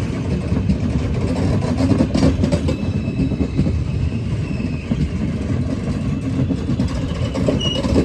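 A train running on the rails with a loud, steady low rumble; a faint high whine sets in about three seconds in.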